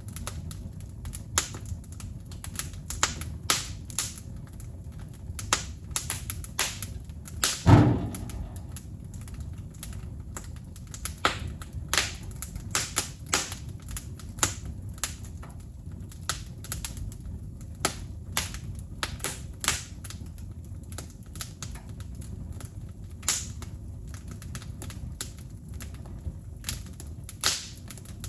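Wood fire crackling: irregular sharp pops and snaps over a low steady rumble, with one louder pop about eight seconds in.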